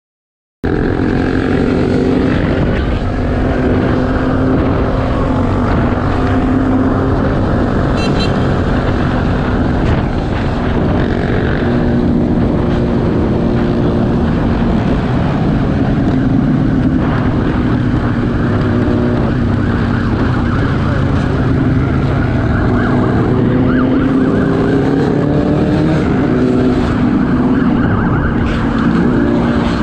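Loud, steady vehicle engine and road noise that starts suddenly after a moment of silence.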